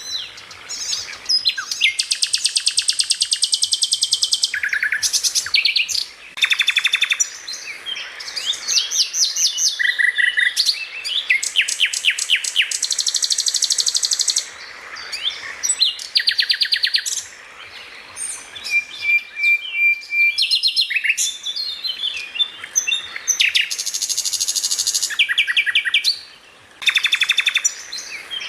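Songbird singing a long, varied song of rapid repeated chirps, fast trills and short whistles, delivered in quick bursts with brief pauses between phrases.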